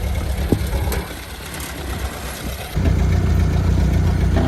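1929 Ford Model A's four-cylinder engine running with a steady low rumble, quieter for a stretch about a second in, then abruptly louder again just before three seconds in.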